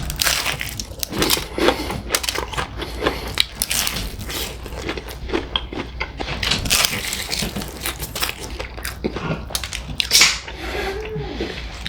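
Close-up crunching of bites into extra crispy fried chicken: irregular crackling crunches of the fried breading and skin with chewing, one especially loud crunch about ten seconds in.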